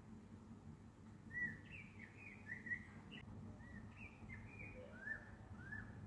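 A bird singing a run of short, quick whistled notes that start about a second in and go on for several seconds, some sliding up and some sliding down, over a faint low background rumble.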